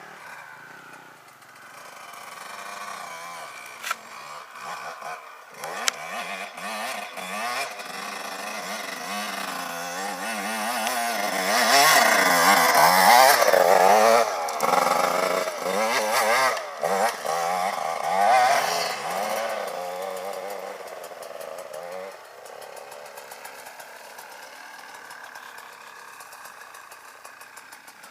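Off-road motorcycle engine revving up and down as it is ridden, building to its loudest about halfway through and then easing off, with occasional knocks and rattles.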